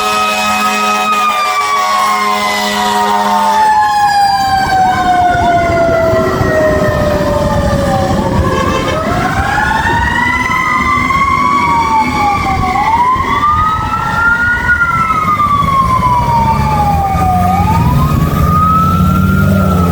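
Fire truck siren wailing: a long slow fall in pitch, then repeated rising and falling wails. A deep steady horn blast sounds over the first few seconds, and a low engine rumble builds near the end.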